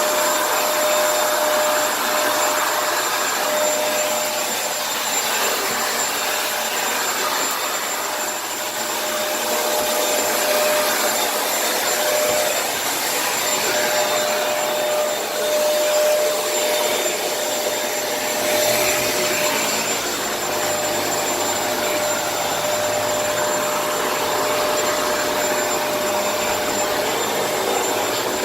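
Kenmore vacuum cleaner running steadily: a rush of air with a constant motor whine, swelling and easing a little as it is moved around.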